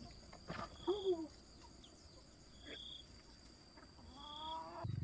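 Farm animals calling: a short arched call about a second in and a rising, drawn-out call near the end. A brief high chirp repeats about every two seconds, and a steady low hum starts right at the end.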